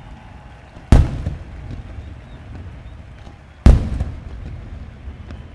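Aerial firework shells bursting: two sharp, loud bangs about three seconds apart, each trailing off in echo, over a low background rumble.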